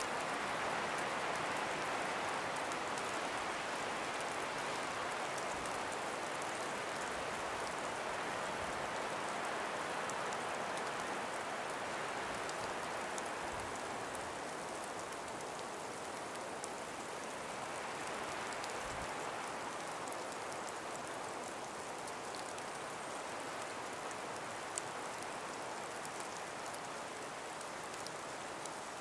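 Calm breeze moving through ice- and snow-laden forest trees: a steady soft hiss that eases slightly over time, with faint scattered ticks.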